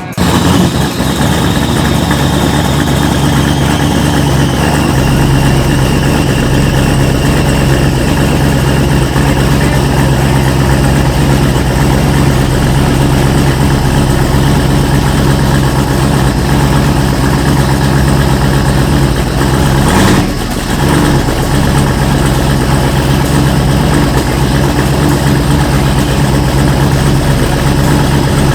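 Box Chevy drag car's engine idling loudly and steadily, with a brief dip in level about twenty seconds in.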